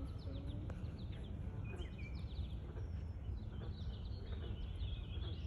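Pond-side ambience: a steady low rumble with small birds chirping faintly, the chirps growing busier in the second half.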